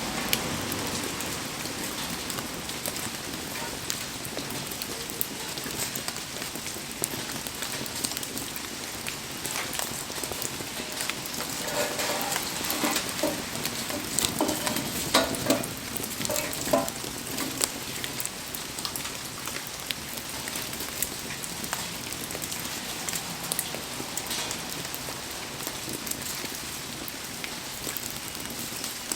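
Heavy rain falling steadily, with a wood fire crackling through it. Louder pops and knocks come in a cluster between about twelve and seventeen seconds in.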